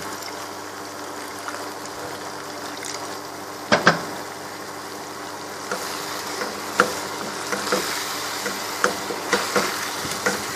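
Half a cup of water poured into a pan of hot oil and fried onion-tomato masala, hissing and bubbling. It is stirred in, with two sharp knocks about four seconds in and more clicks and knocks against the pan in the second half.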